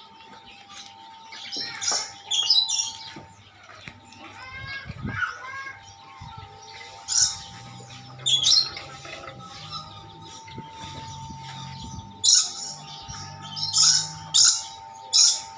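Lory (nuri) giving loud, harsh screeching calls: one burst about two seconds in, two more around the middle, and a quick run of screeches near the end. Softer chattering notes come in between.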